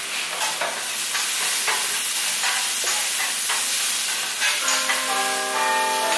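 Food frying and sizzling steadily, with a few short clicks. About four and a half seconds in, a music cue of held bell-like chiming notes starts over it.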